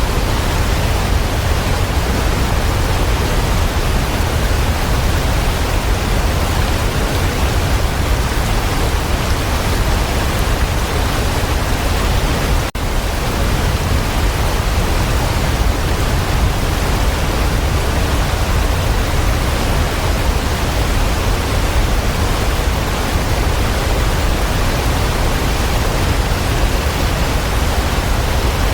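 Waterfall: a steady, even rush of falling water, with one very brief dip about twelve seconds in.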